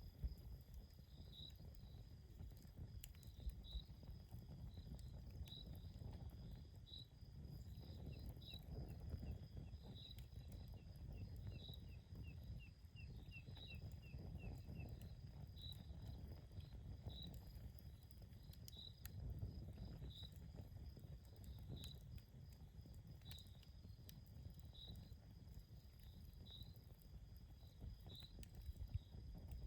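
Campfire burning quietly: faint scattered crackles over a low rumble, while an insect chirps with a short high note about once a second. A quicker run of chirps joins in about a third of the way through and stops about halfway.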